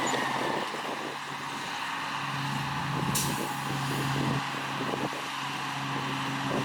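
Heavy diesel earthmoving machinery running steadily, a dump truck or bulldozer engine hum, with a short hiss about three seconds in.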